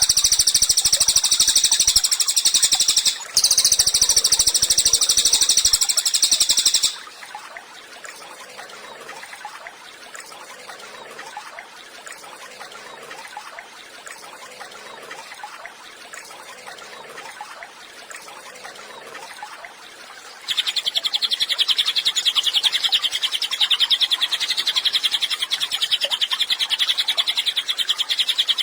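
Cililin songbird singing a loud, very fast, high trilling song, with a short break about three seconds in. After about seven seconds it drops to faint chirping, and about twenty seconds in a loud rapid trill starts again, a little lower in pitch.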